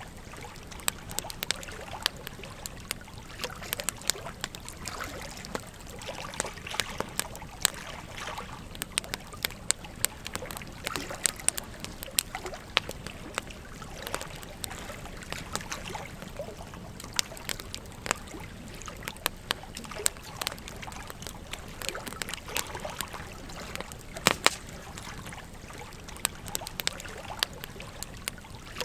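Wood campfire crackling, with irregular sharp pops and snaps, some much louder than the rest, over the steady babble of a gentle stream.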